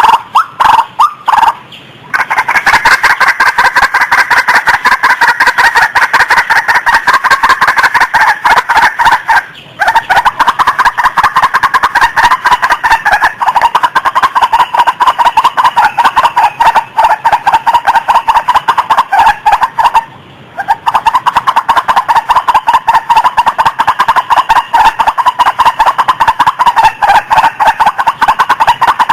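White-breasted waterhen (ruak-ruak) calling: a loud, rapid, unbroken series of repeated harsh notes. The series breaks off briefly twice, about ten and twenty seconds in, then resumes.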